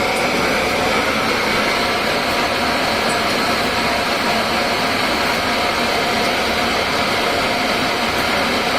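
A Mikawa industrial machine more than thirty years old, running with a steady, even mechanical hum that does not change.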